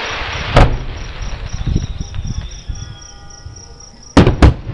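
Fireworks shells bursting about a mile away: one sharp bang about half a second in, then two more in quick succession near the end. Crickets chirp steadily throughout.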